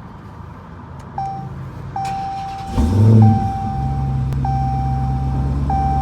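Dodge Challenger SRT Hellcat's supercharged 6.2-litre HEMI V8 cranking and firing about three seconds in, flaring up in revs and then settling to a steady idle. A short chime sounds repeatedly, about every second and a half.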